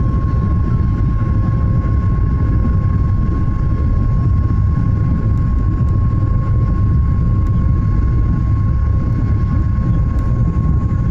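Boeing 737 jet engines at takeoff thrust: a loud, steady low roar with a constant high whine held on one pitch.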